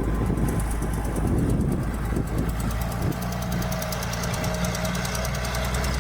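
Heavy diesel construction machine engine running, uneven for the first half, then settling to a steady idle about halfway through.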